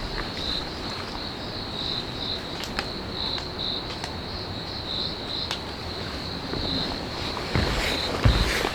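An insect chirping in short, repeated high-pitched pulses at a steady pitch, over a constant hiss of outdoor background noise. A few low thumps come in near the end.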